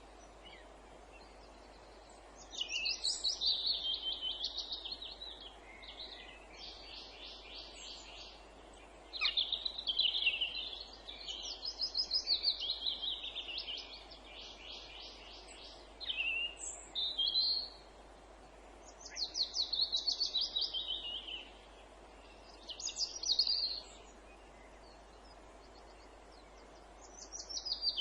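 Songbirds singing in woodland: a run of song phrases of rapid repeated notes, several falling in pitch, each lasting one to three seconds with short pauses between, over a faint steady background hiss.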